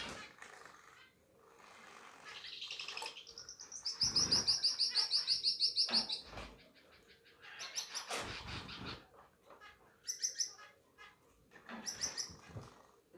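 Parrot finch singing: a run of rapidly repeated high notes, about seven a second for some two seconds, then several shorter bursts of high chirps.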